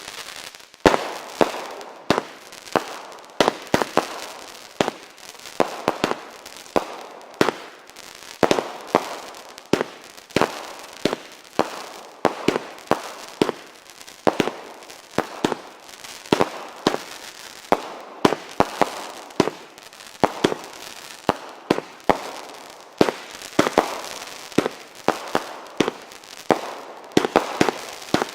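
A crackling firework fountain burning: a steady hiss broken by sharp cracks, two or three a second, without pause.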